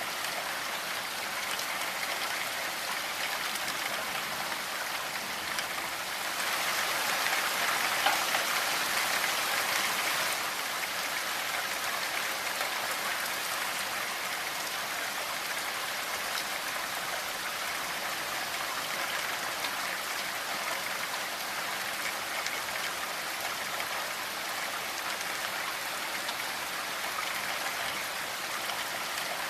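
Steady rainfall, a dense patter of drops, swelling a little louder for a few seconds about a quarter of the way in.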